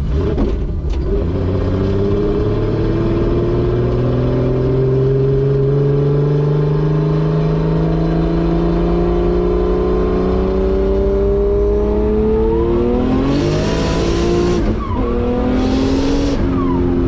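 Turbocharged 2JZ inline-six in a 240SX pulling through a long gear, its pitch rising slowly and then climbing faster, heard through a 4-inch fender-exit exhaust. Near the end come two loud hisses, with a short dip in the engine note between them as it shifts.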